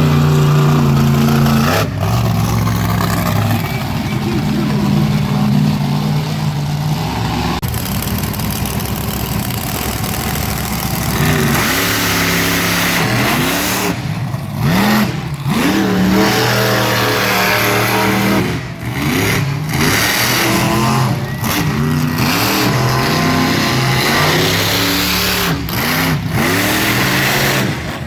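A race truck's engine running hard. It holds at high revs with a few steps in pitch for the first several seconds, then revs up and down again and again through the second half.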